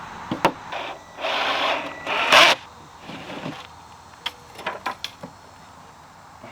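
A nail gun firing into wooden boards: a short mechanical burst about a second in, then a loud sharp shot of the tool about two seconds in, followed by a few small clicks and knocks of handling.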